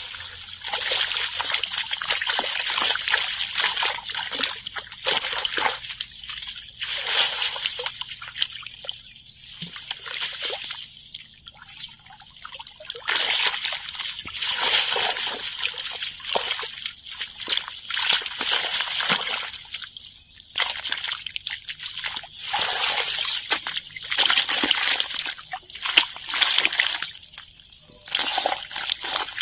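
Water splashing and sloshing in irregular swells, each a second to several seconds long with brief lulls between.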